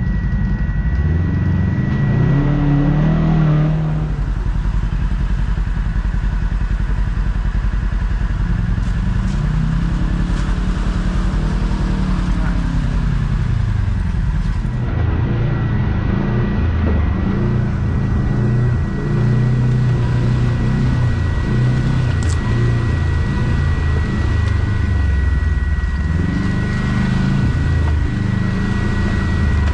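Kawasaki KRX side-by-side engine running while it drives a trail, its pitch rising and falling with the throttle.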